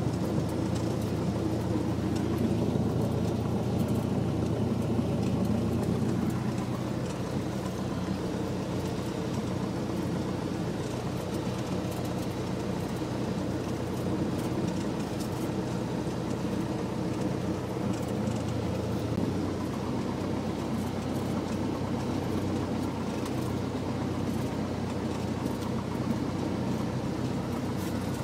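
Cessna 172's piston engine and propeller running steadily; the engine note drops slightly about six seconds in and shifts again around 19 seconds in.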